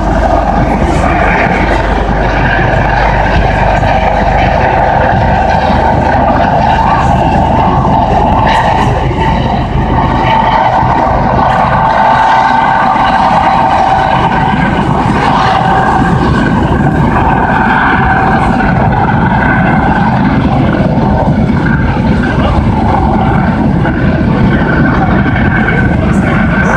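Coast Guard search-and-rescue helicopter running close by: a steady high whine over a loud low rumble.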